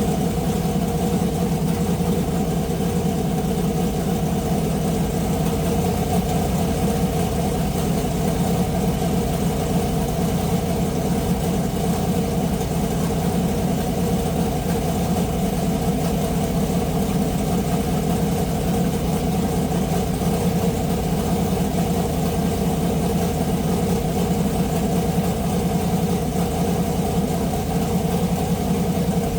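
Turbocharged race car engine idling steadily, with an even, unchanging note.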